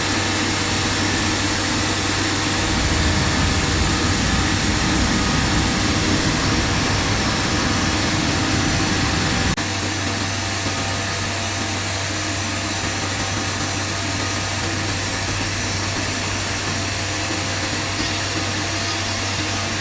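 CNC router running with a steady, whirring machine noise. From about three seconds in it grows louder and deeper, then drops back abruptly near the ten-second mark.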